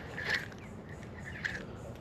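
Two short bird calls, a little over a second apart, over a steady low background hiss.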